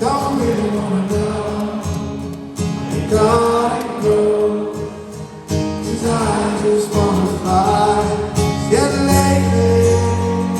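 Rock band playing live, loud and continuous, with held chords under a melody line that bends up and down.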